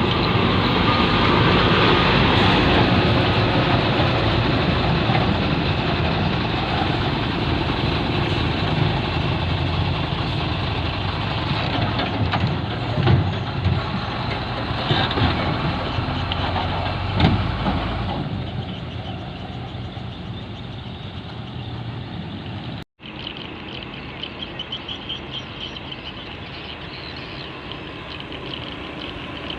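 Heavy truck's engine running loud with a deep rumble and a few sharp peaks, easing off after about eighteen seconds. After a brief dropout near the end, a quieter engine background with rapid rhythmic chirping.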